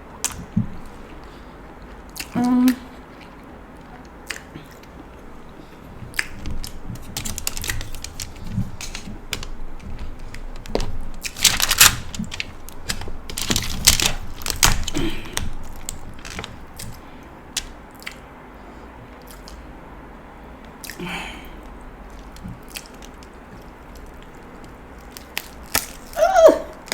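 King crab shell being cracked and picked apart by hand, with scattered sharp clicks and cracks that cluster in the middle, and some chewing. Two short vocal sounds, one about two seconds in and one near the end.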